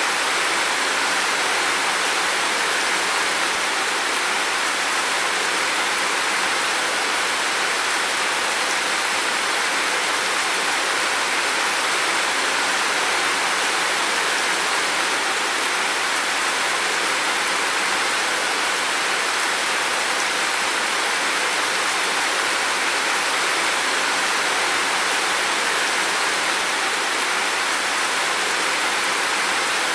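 Heavy rain falling as a dense, steady hiss with no distinct drops or changes.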